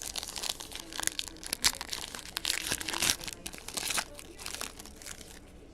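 Plastic trading-card pack wrapper and card packaging crinkling and crackling as it is handled and torn, in irregular bursts that are busiest over the first four seconds and taper off.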